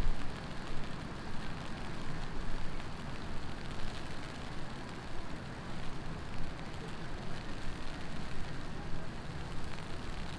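Heavy rain falling steadily over a low, even rumble of city traffic.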